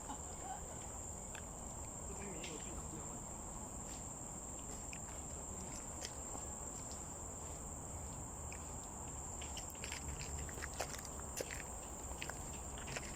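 Steady high-pitched drone of insects, with scattered light clicks and taps that come more often near the end.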